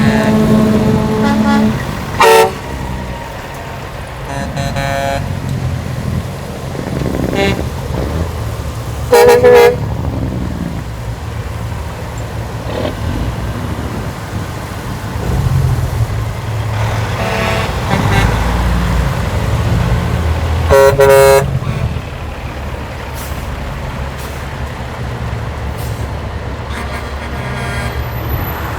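Semi-truck horns sounding in three loud, short blasts, with fainter honks between them, over the steady low rumble of big-rig diesel engines.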